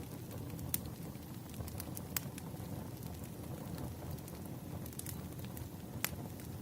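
Wood fire crackling in a fireplace: a steady low rumble of flames with scattered sharp pops, the loudest about three-quarters of a second, two seconds and six seconds in.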